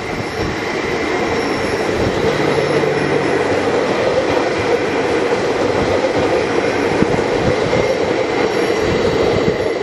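A VR Sm5 (Stadler FLIRT) electric commuter train running past close by, its wheels rumbling steadily on the rails. A thin, steady high whine sits over the rumble, and the sound grows a little louder about a second in.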